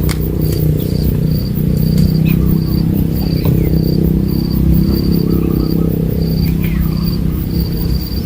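An insect, cricket-like, chirping in short high pulses about twice a second, over a loud steady low rumble.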